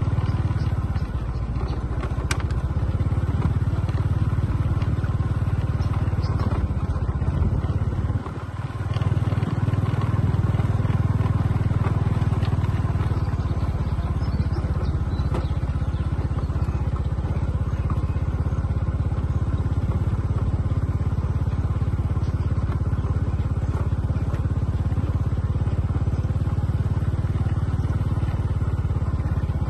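Radio-controlled bulldozer running, a steady low engine-like drone that drops away briefly about eight seconds in and then picks up again.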